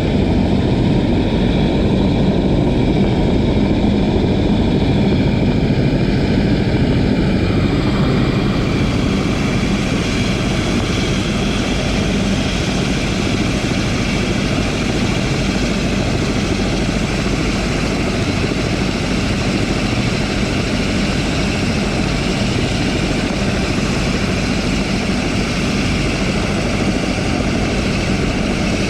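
Helicopter engine and rotor running steadily as it readies to take off. The sound grows fuller and brighter about eight seconds in.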